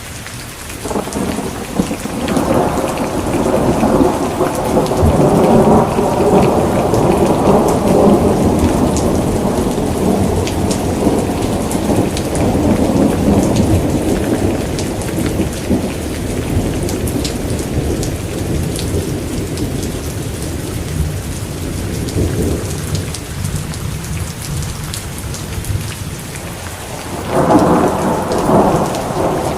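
Steady rain falling, with a long roll of thunder that starts about a second in and slowly dies away over some twenty seconds, then a fresh thunderclap rumbling in near the end.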